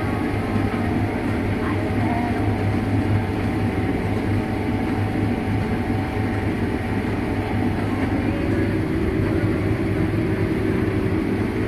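Combine harvester running steadily while harvesting soybeans: a constant low diesel drone under a dense mechanical rumble.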